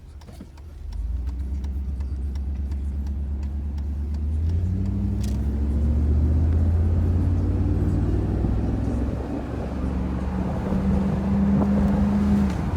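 Mercedes-Benz R129 500SL's V8 with its muffler deleted, heard from the open-top car on the move. The exhaust note swells about a second in, rises in pitch as the car accelerates, then eases and settles to a steady cruise near the end.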